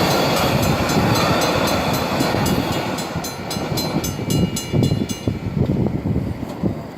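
A train rumbling through a level crossing as its sound fades, while the crossing's Safetran mechanical bell rings at about four strikes a second. The bell stops about five seconds in.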